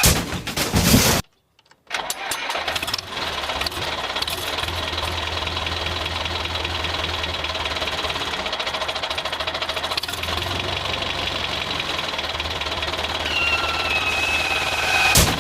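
An engine running steadily at idle with an even, fast chugging pulse, after a brief loud noise and a short break near the start.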